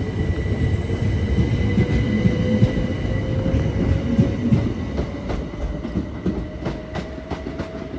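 Train running on the rails: a low rumble with a steady high whine and a tone that slowly rises in pitch. From about five seconds in, wheels click over rail joints as the sound fades.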